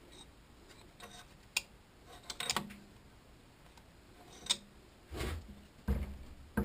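Tools and parts being handled: scattered sharp clicks and light knocks, then two duller, heavier thumps in the last couple of seconds.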